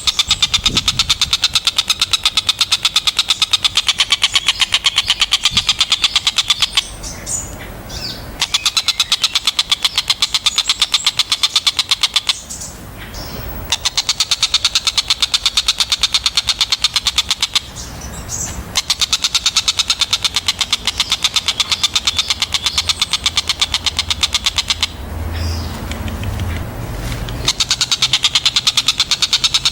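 Tengkek buto kingfisher calling in long runs of rapid, harsh repeated notes, in several bouts separated by pauses of a second or two.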